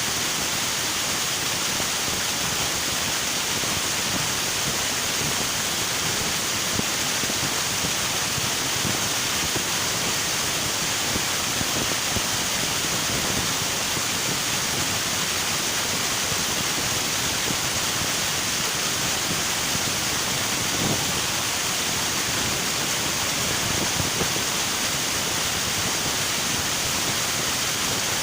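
River water rushing over rocks: a steady, even roar of flowing water without pause.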